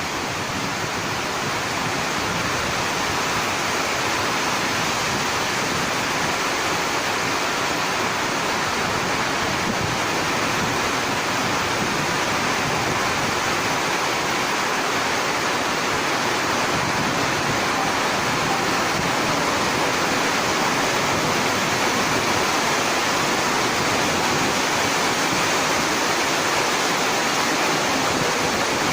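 Heavy monsoon rain falling steadily, a dense, even hiss that swells slightly over the span.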